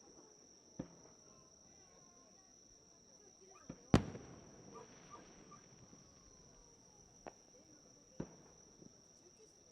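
Fireworks shells bursting: about five sharp bangs, the loudest about four seconds in with a short rumble after it. A steady high insect trill runs underneath.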